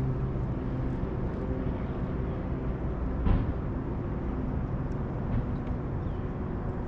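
Boat motor running steadily, with a single knock about three seconds in.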